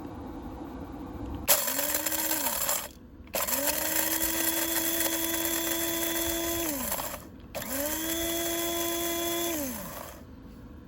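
Electric coffee grinder run in three pulses: a short one, then two longer ones, each motor spinning up to a steady whine with a harsh grinding hiss and winding down when switched off.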